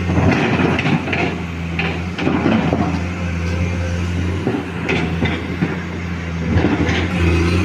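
Excavator's diesel engine running steadily, with irregular scrapes and knocks from the digging.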